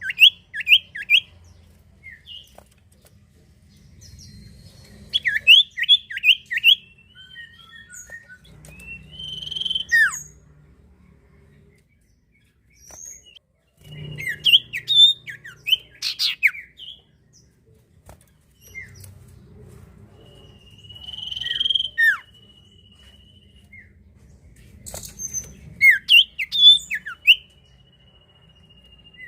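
Common iora (sirtu or cipoh) singing: bursts of quick, sharp chirps and short downward-sliding whistles every few seconds, with two long drawn-out whistles in the second half.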